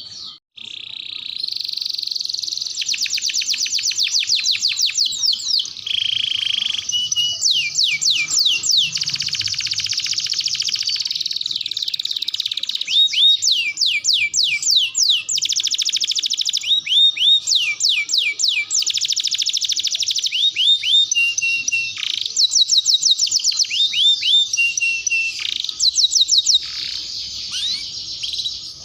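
Domestic canary singing a long, continuous song of fast trills, rapid series of falling whistled notes and short held tones, all high-pitched, with barely a pause.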